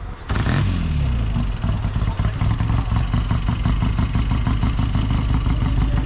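A vehicle engine running loud: its revs fall just after it comes in, then it settles to a steady idle with a quick, even beat.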